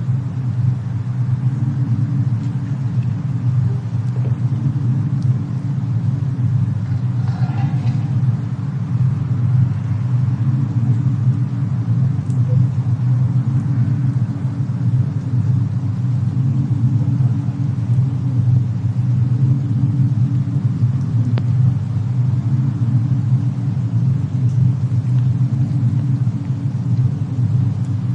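Fireplace-and-snowstorm ambience: a steady low rumble with a few faint crackles of burning wood.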